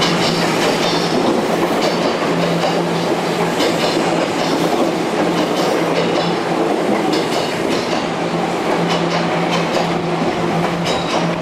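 Hankyu electric commuter train running alongside the platform, with a steady rumble of wheels on rail and repeated clatter over the rail joints.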